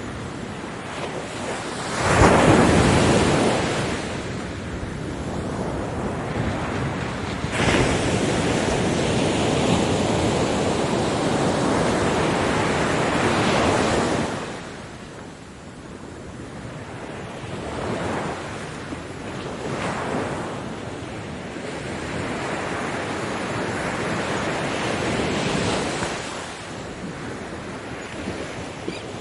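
Ocean waves breaking on a beach, with a strong surge of surf about two seconds in and another about a third of the way through, then smaller waves washing in.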